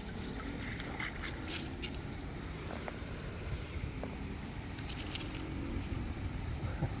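Low, steady outdoor background rumble with a few faint clicks and scrapes of rocks being handled, about a second in and again around five seconds in.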